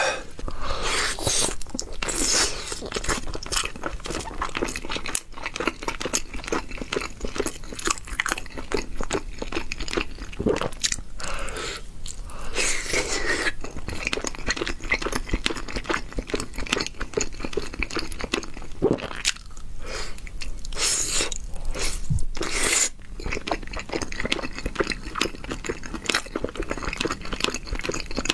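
Close-miked eating: a person biting and chewing food in quick, irregular crunches and wet mouth clicks, mukbang-style.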